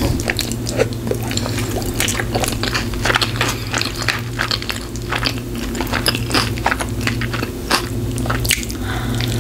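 A bite taken from a cheeseburger and chewed with the mouth close to the microphone: many small, sharp, wet clicks and smacks.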